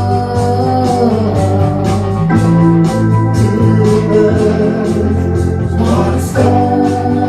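Band music: sustained chords over a steady drum beat, changing chord about two seconds in and again near the end.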